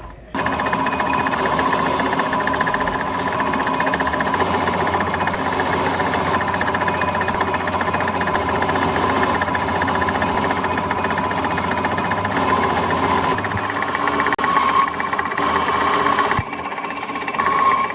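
A workshop machine running steadily with a fast, even rattle and a steady whine, easing off briefly near the end.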